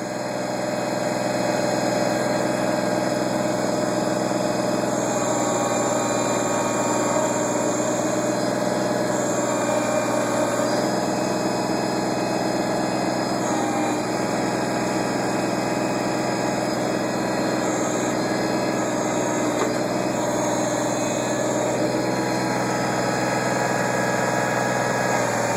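Backhoe engine running, picking up over the first couple of seconds and then holding steady while the backhoe takes a scoop.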